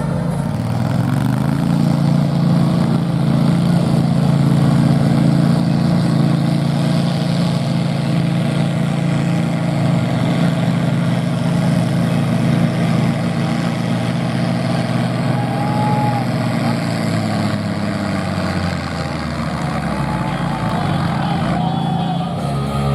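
Farm tractor's diesel engine running hard under load as it drags a tractor-pulling sled. The engine note holds steady for most of the pull, eases off about three-quarters of the way through, and picks up again near the end.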